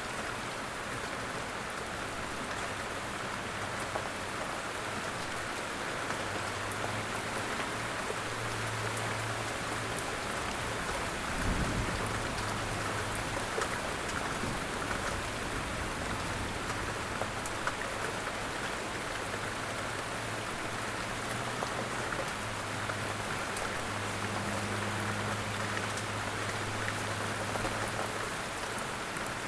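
Steady rain falling on a surface, with scattered individual drops ticking through the hiss. About a third of the way in there is a single brief low thump.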